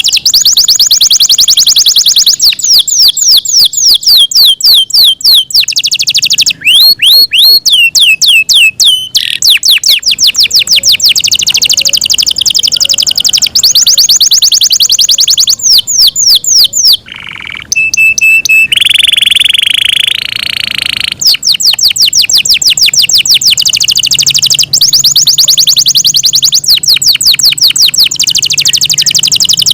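Yorkshire canary singing a long, loud song of fast repeated trills, switching to a new phrase every couple of seconds. Past the middle it holds a single steady note, then gives a harsh buzzy phrase before going back to rapid trills.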